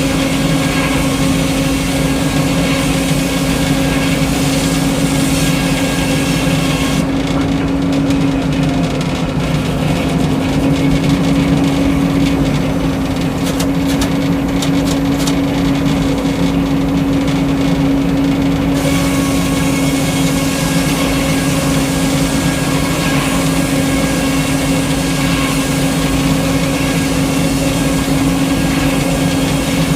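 Frick sawmill running steadily under its engine, with a constant low hum. The high hiss thins out for about twelve seconds in the middle, with a few faint clicks, then comes back.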